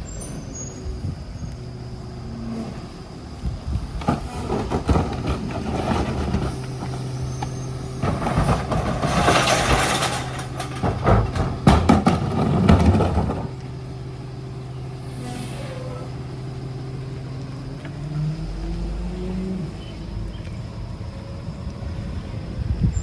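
Ford garbage truck with a Heil rear-loader body, its engine running steadily, with several seconds of loud clattering and banging in the middle and the engine note rising near the end.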